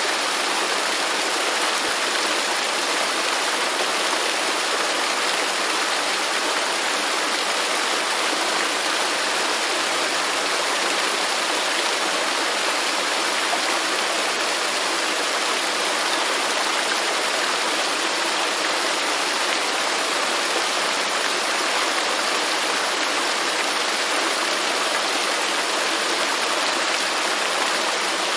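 Waterfall's steady rush of falling water, an even hiss with little deep rumble that does not change.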